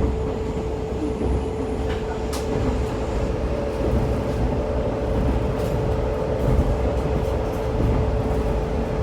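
Diesel railcar running along the line, heard from inside the cabin: a steady low rumble of engine and wheels with a constant whine over it, and a second, higher tone joining a few seconds in.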